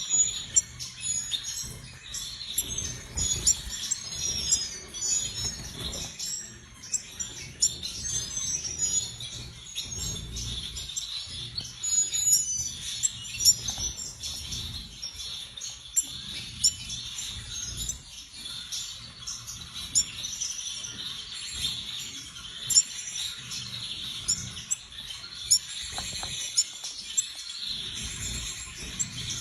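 Cordon-bleu finch chirping and singing in short, thin, high-pitched notes, with scattered clicks.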